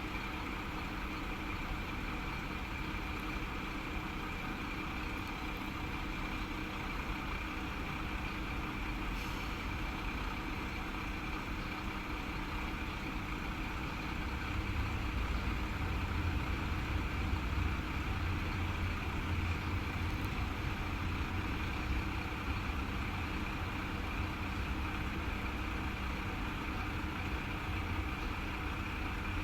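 Diesel railcar engine idling steadily, with a constant high whine over it; about halfway through a deeper engine rumble grows louder and holds.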